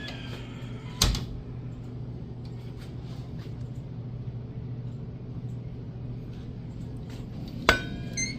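Two sharp knocks, one about a second in and one near the end, the second followed by a brief metallic ringing, over a steady low hum.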